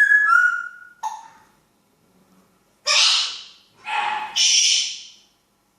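African grey parrot whistling a clear, slightly falling note, then giving a brief call and, from about three seconds in, three harsh, noisy squawks.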